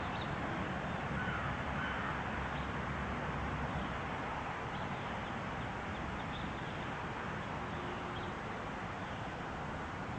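Outdoor ambience: a steady rushing background noise with a few faint, scattered bird calls.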